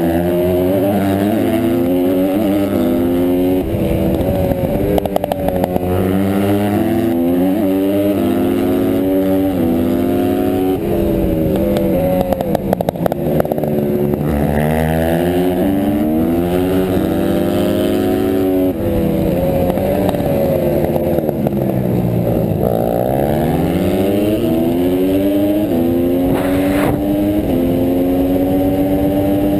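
Honda CRF150R pit bike's single-cylinder four-stroke engine racing: the revs climb again and again through the gears, then drop away as it slows into corners. A short crackle comes about midway and a sharp click near the end.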